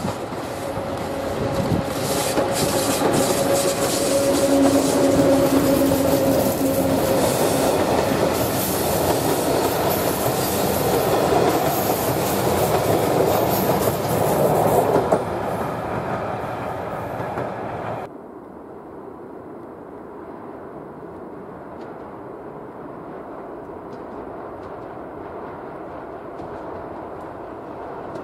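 EU07 electric locomotive and its passenger coaches passing close by, wheels clattering over the rail joints, with a steady whine over the first several seconds. It cuts off suddenly about 18 seconds in, giving way to the quieter, even rumble of an ED161 (Pesa Dart) electric multiple unit approaching from a distance.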